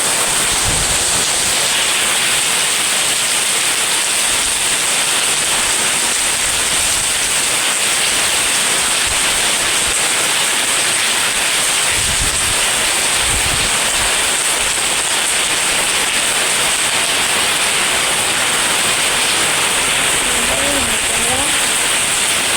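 Heavy rain pouring in a windstorm: a steady, loud hiss of rain, with wind gusts buffeting the microphone in low rumbles now and then, most plainly about halfway through.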